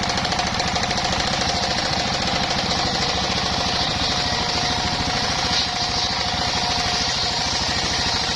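Engine-driven circular sawmill running steadily: the engine's fast, even knocking pulse under a steady high tone and a hiss.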